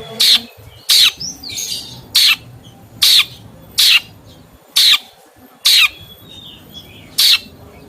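A songbird giving short, harsh squawking calls, eight of them at roughly one-second intervals, with faint twittering in between.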